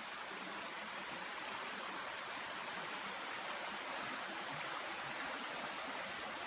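Shallow creek water running over rocks with a steady rushing sound; the creek is very dry, running low.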